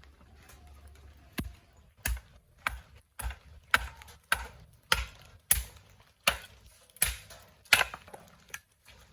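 Firewood being chopped into kindling: about a dozen sharp chopping strokes, roughly two a second, starting about a second and a half in.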